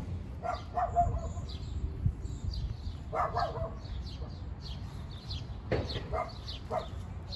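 Small birds chirping in short, falling notes again and again, with a few lower, louder calls mixed in and a steady low rumble underneath.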